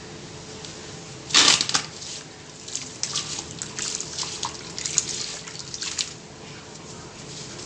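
Sand-and-cement mix crumbling into water: a loud splashing burst about a second and a half in, then irregular wet crackling and dripping that dies down near the end.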